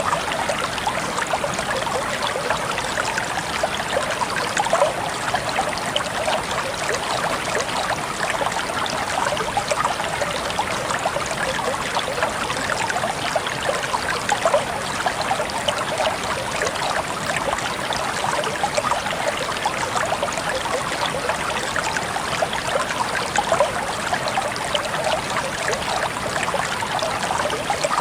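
Water trickling and splashing steadily, a constant wash of many small droplet sounds with no pause or change.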